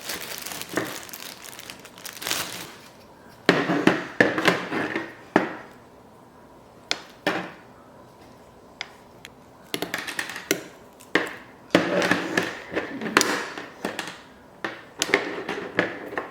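Hands handling a portable thermoelectric mini fridge and its parts: irregular knocks, clicks and short rustling bursts.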